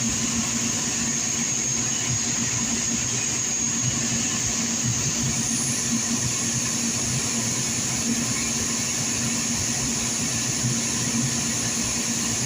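A motor running steadily, with a low hum and a thin high whine over it.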